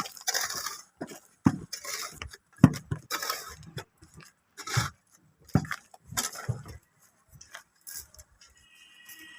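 Irregular metallic clinks, knocks and scrapes of hand work on a column under construction, with uneven pauses between strokes and a brief high squeak near the end.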